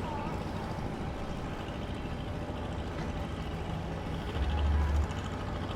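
Low, steady engine rumble that swells for about a second, about four seconds in.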